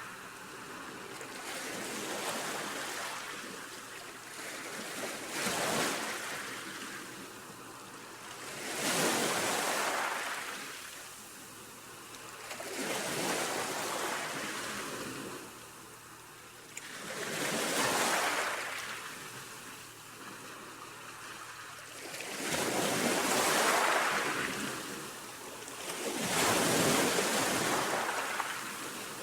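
Baltic Sea waves washing in, a rushing surge that swells and fades about every four to five seconds.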